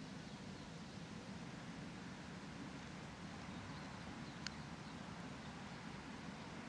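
Faint outdoor park ambience: a steady low rumble and hiss, with faint scattered chirps and one short, sharp chirp about four and a half seconds in.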